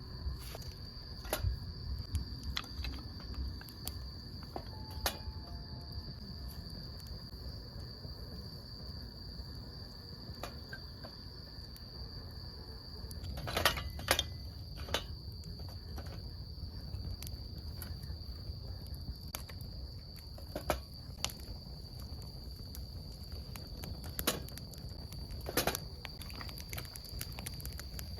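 A steady high-pitched insect trill, crickets calling, with the scattered sharp crackles and pops of a wood campfire. A cluster of louder pops comes about halfway through.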